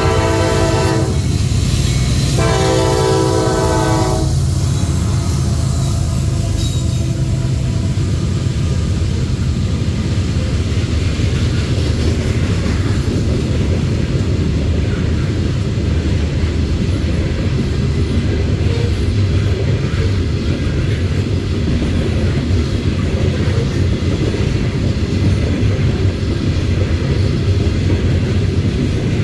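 Diesel locomotive horn sounding two blasts: the first cuts off about a second in, the second lasts about two seconds. Then the steady low rumble of the Norfolk Southern locomotives and loaded coal gondolas rolling by.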